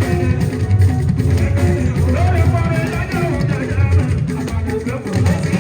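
Live Fuji band music: guitar over drums and percussion, with a strong low beat.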